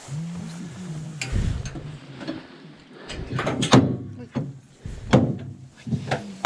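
Several sharp knocks and clanks, with low murmuring voices at the start, as people climb aboard the volcano descent lift and its door or gate is handled.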